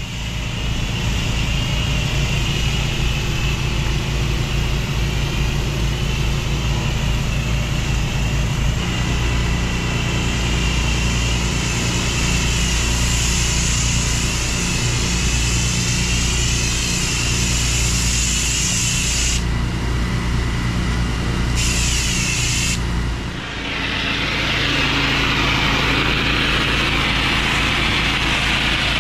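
Engine-driven pressure washer running steadily under the hiss of its high-pressure water jet. Near the end the engine sound drops back and the spray hiss gets louder.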